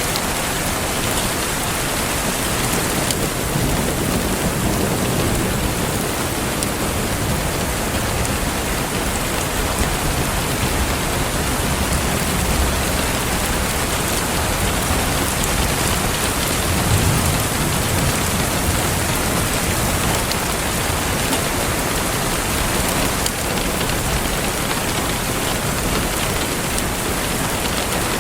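Steady rain falling, an even hiss with a low rumble swelling now and then.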